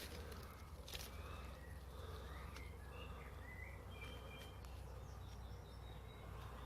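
Small birds chirping and whistling, with several short rising notes in the middle, over a steady low rumble and a faint click or two.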